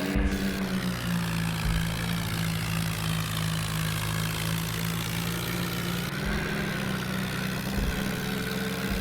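Swaraj tractor diesel engine running at a steady speed, with a few brief low thumps.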